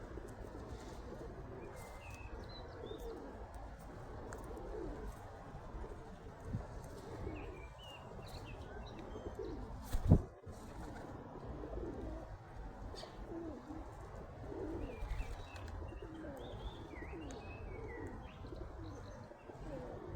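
Birds calling throughout in short, low, repeated calls, with faint high chirps mixed in. One sharp loud knock about halfway through.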